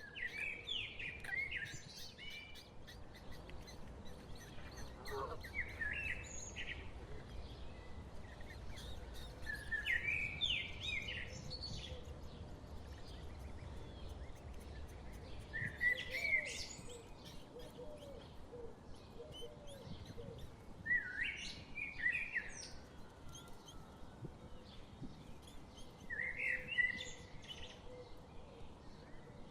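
A small wild bird sings short, quick chirping phrases, one roughly every five seconds, over faint low background noise.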